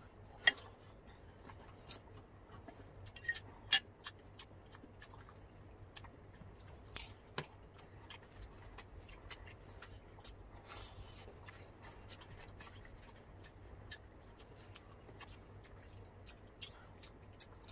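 Close-miked eating sounds: chewing and mouth clicks at scattered, irregular intervals, with a few sharper clicks standing out.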